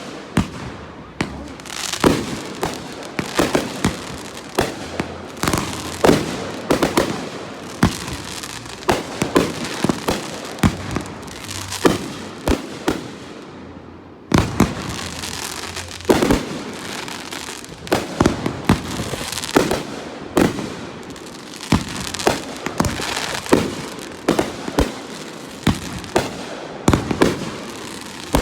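Aerial fireworks going off in quick succession: a continuous barrage of sharp bangs, several a second at times, over steady crackling, with a short lull about halfway through before the bangs start again.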